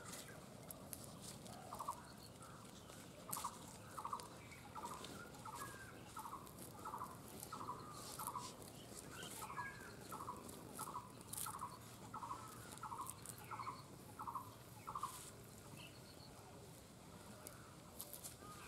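A bird calling in the background: a steady series of short, repeated notes, nearly two a second, for about thirteen seconds before stopping. Light clicks and scrapes of a knife working the pulp of roasted drumstick pods on a banana leaf come through over it.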